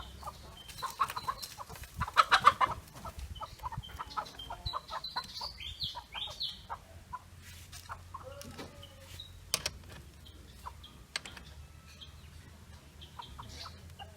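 Chickens clucking, with scattered sharp metal clicks and knocks from hands-on work on the engine; a cluster of knocks about two seconds in is the loudest sound.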